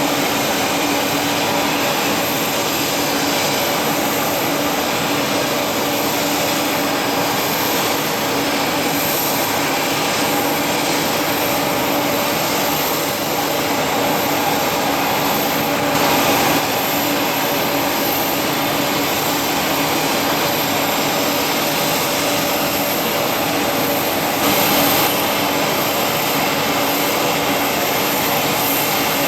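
Business jet's turbofan engines running steadily: a broad rush with a steady high whine, briefly louder twice, about halfway and near the end.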